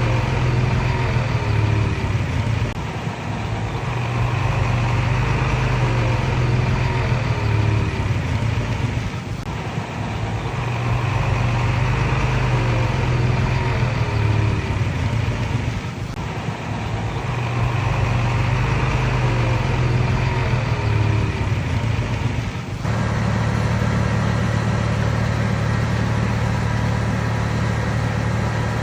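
Komatsu D31PX bulldozer's diesel engine running under load. It swells and eases in a repeating cycle about every six to seven seconds, then settles to a steadier, even note about three-quarters of the way through.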